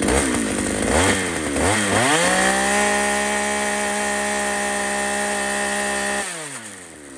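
Two-stroke chainsaw engine revved in three quick blips, then held at high revs for about four seconds and let back down towards idle near the end.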